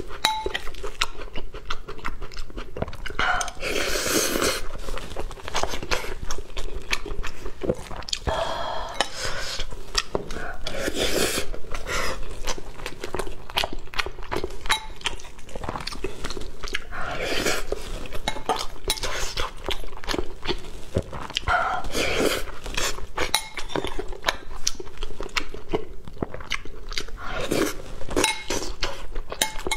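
Close-miked chewing and mouth sounds of a person eating, with a metal spoon repeatedly clinking and scraping against a glass bowl.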